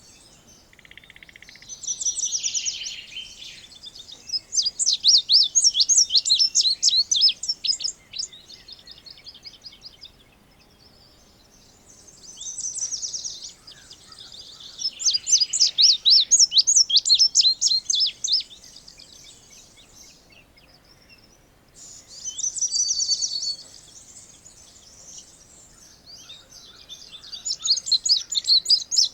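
Indigo bunting singing: three bouts of high, sweet song with pauses of a few seconds between them. Each bout opens with a short phrase and runs into a longer string of quick repeated notes.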